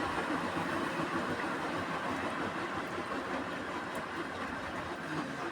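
Beko washing machine running a service-mode test: a steady rushing noise.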